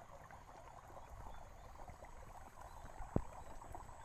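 Faint crackling and trickling of water in a wet, muddy rice paddy, with one sharp click a little over three seconds in.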